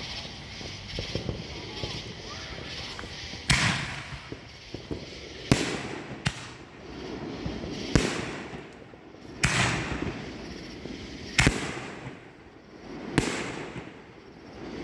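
Aerial fireworks bursting overhead: a run of about six sharp bangs roughly two seconds apart, each trailing off in an echoing rumble.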